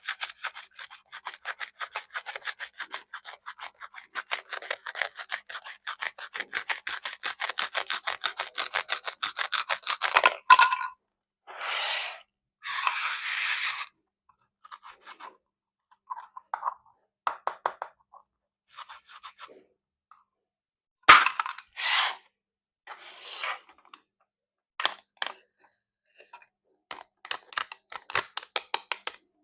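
Plastic toy fruit being cut with a plastic knife: a rapid run of small clicks, about six or seven a second, for roughly ten seconds, then scattered scraping and rubbing. There is one sharp knock a little past two-thirds of the way through, and quick clicks again near the end.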